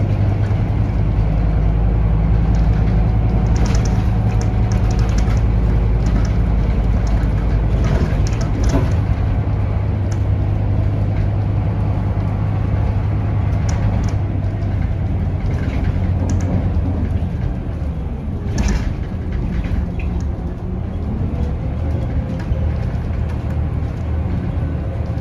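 Onboard sound of a Scania K280UB bus under way: its Scania DC9 diesel engine gives a steady low drone, with scattered interior rattles and clicks. A note rises near the end.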